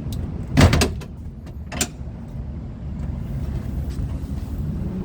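A vehicle engine running steadily with a low rumble. There is a loud clank a little over half a second in and a shorter knock near two seconds.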